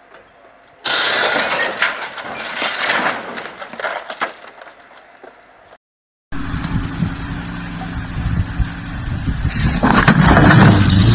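About five seconds of loud, noisy rushing with clicks and clatter, which stops abruptly. After a brief silence, a Lada Niva's engine runs under load as the SUV drives up wooden plank ramps into a box truck, growing louder near the end.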